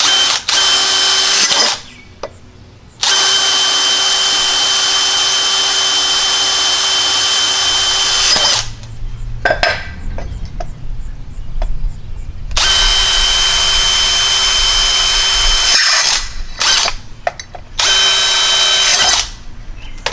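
Electric drill boring holes into a piece of wood, run in several bursts with a steady whine: a short run near the start, a long run of about five seconds, a run of about three seconds in the second half, and short runs near the end.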